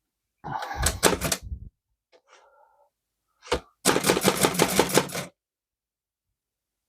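Keys of a Chicago typewriter being struck, with its five-sided star hammer hitting the back of the paper against the type sleeve. A short burst of clacks is followed, about three and a half seconds in, by one clack and then a quick run of about eight keystrokes a second.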